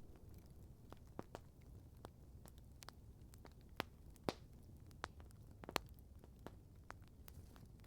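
Wood campfire crackling faintly: scattered sharp pops and snaps, the loudest few in the middle, over a low steady background rumble.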